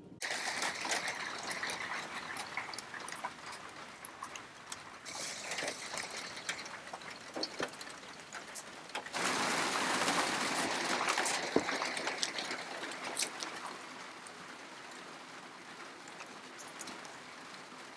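Rain falling during a thunderstorm, with water trickling and running off and many small drop impacts. It starts abruptly, grows heavier for a few seconds around the middle with one sharp knock, then eases.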